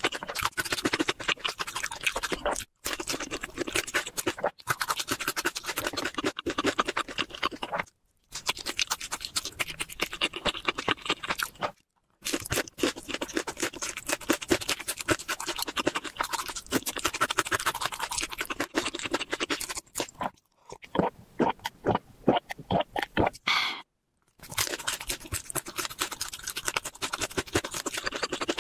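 Close-miked chewing of crispy fried chicken: dense, crackling crunches of the fried coating in long bouts, broken by a few brief silences. Around three quarters of the way through, the crunching slows to sparser, wetter chews.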